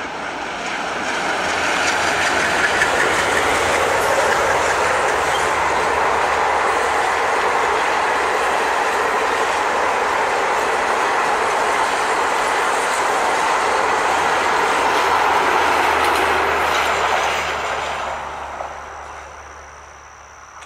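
Passenger express train passing over a concrete viaduct: a steady, loud rumble of coach wheels on the rails with clickety-clack from the rail joints. It builds over the first couple of seconds and fades away over the last few seconds as the coaches go by.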